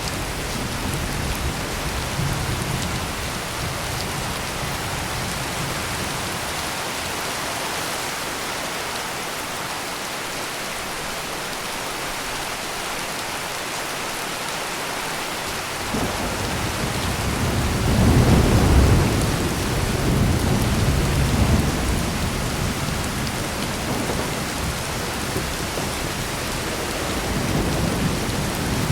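Heavy rain pouring steadily in a thunderstorm. Rolling thunder fades out in the first few seconds, then a deep rumble breaks in suddenly about halfway through, is loudest a few seconds later and rolls on for several seconds, with another lighter roll near the end.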